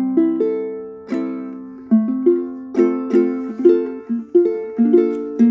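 Martin Style 3 Ditson Dreadnought ukulele with Aquila strings and a low G, fingerpicked: chords and single notes ring and fade, a new one about every half second.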